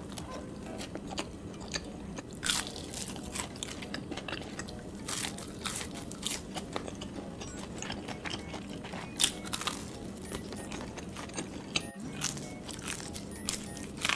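Close-miked biting and chewing of crunchy food, a run of irregular crisp crunches.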